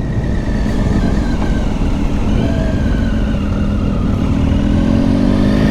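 Triumph Tiger 800 XCx's three-cylinder engine running on the road, with heavy low wind rumble; the engine note rises near the end as the bike speeds up.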